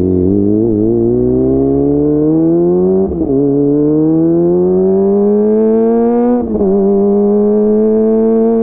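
Kawasaki ZX-25R inline-four engine through a DX Generation GPR full-system exhaust, accelerating under gentle throttle. The revs climb steadily, drop with an upshift about three seconds in, climb again, drop with a second upshift past the six-second mark, then hold nearly steady.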